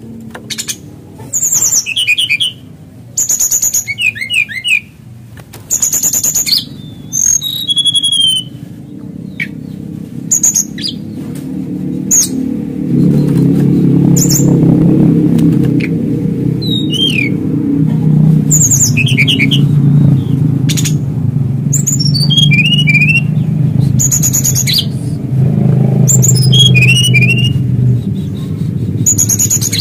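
Male brown-chested jungle flycatcher singing: short phrases of high clear notes and quick downward-slurred notes, repeated with brief pauses. A low steady rumble like a motor runs underneath and grows louder about halfway through.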